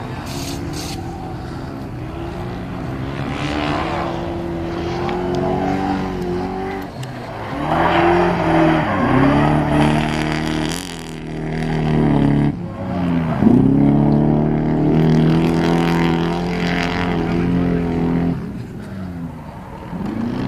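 A Toyota 1UZ-FE V8 in a Nissan Hardbody drift truck revving hard under load. Its pitch climbs and then drops sharply several times as the throttle is lifted and reapplied, and the tyres squeal underneath.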